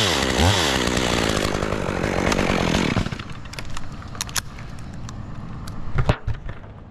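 Chainsaw engine revving up and down, then dropping away about three seconds in. A few sharp clicks and knocks follow.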